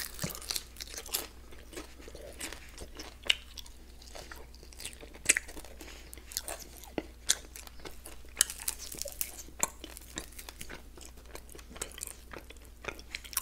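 Close-miked eating of a fried chicken wing coated in peanut butter and jam: a bite at the start, then chewing with irregular crisp crunches and clicks.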